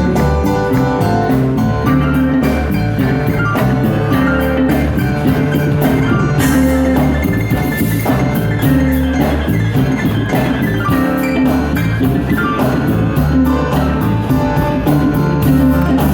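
A live blues band playing, with drum kit, bass and piano or guitar notes over a steady beat.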